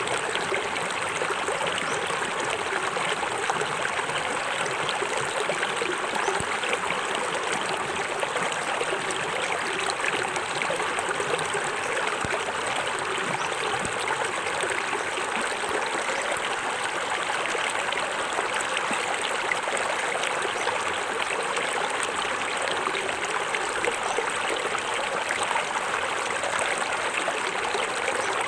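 Small forest waterfall: water falling and running over rocks in a steady, unbroken rush with a trickling, splashing texture.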